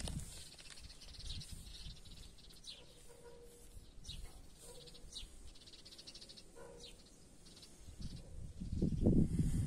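Birds chirping in short calls with a brief trill, over faint background ambience; a louder low rumbling noise comes in near the end.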